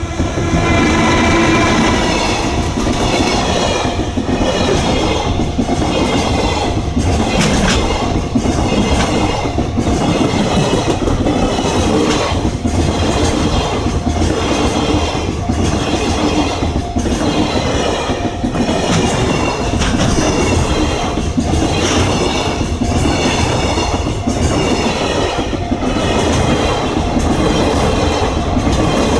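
Freight train passing, loud and continuous: the wagons' wheels clatter over rail joints in a steady repeating rhythm over a constant rumble.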